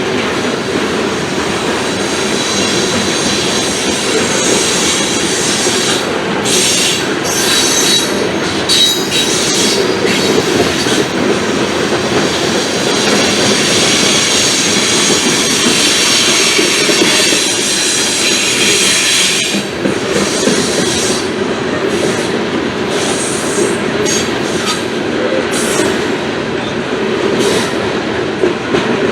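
Coal train's cars rolling slowly past, a steady sound of wheels on rail with bouts of high-pitched wheel squeal, strongest from about six to eleven seconds in and again from about fourteen to nineteen seconds in.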